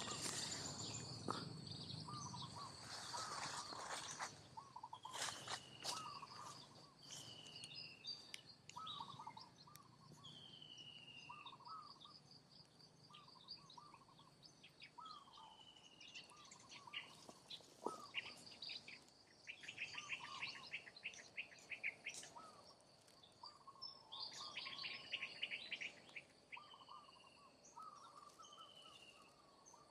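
Birds chirping and calling over and over over a steady high insect buzz, with a few sharp clicks in the first several seconds.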